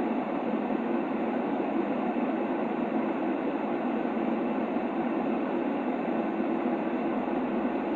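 Steady, unchanging white noise for a baby's sleep: an even, muffled hush with most of its weight low in the middle range and almost no high hiss.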